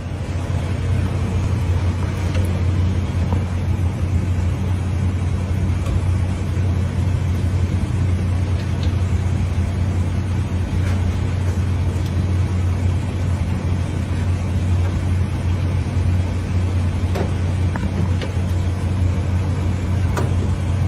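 Motor vehicle running, a steady low hum of engine and road noise with no change.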